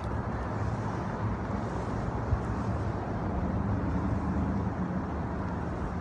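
Steady low hum of a vehicle engine with road-traffic noise, and one short knock a little over two seconds in.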